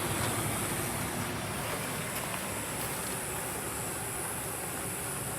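Steady running noise of a vehicle on the move, an even rumble and hiss of engine and road without any change in pace.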